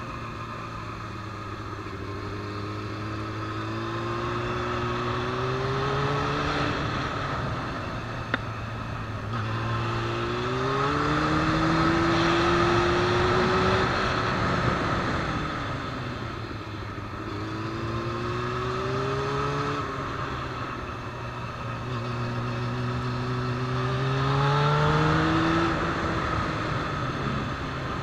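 Motorcycle engine heard from on board, rising in pitch about four times as the throttle opens and falling back as it eases off, with wind rushing over the microphone. A single sharp click about eight seconds in.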